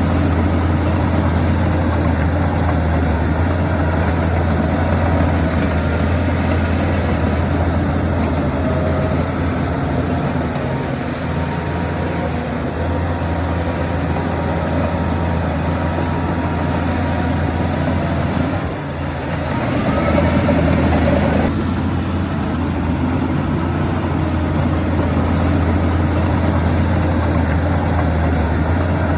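Heavy diesel engine of earthmoving machinery running steadily with a deep hum. Just before twenty seconds in it briefly drops, then rises in engine speed for about two seconds before settling back.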